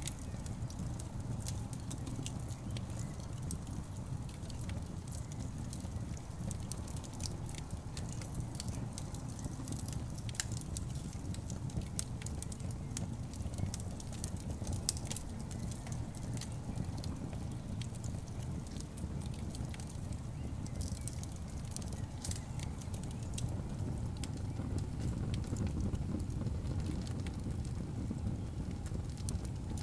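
Wood fire burning in a fireplace: a steady low rumble of flames, with frequent sharp, irregular crackles and pops from the burning logs.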